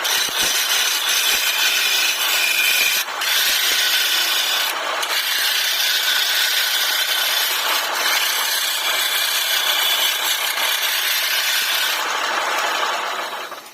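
Power tool cutting into wood: a steady high whine over rasping, scraping noise, easing briefly twice, about 3 and 5 seconds in, and stopping abruptly at the end.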